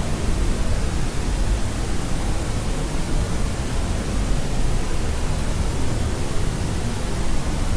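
Steady white noise played as a sleep sound: an even, unbroken hiss, heaviest in the low end.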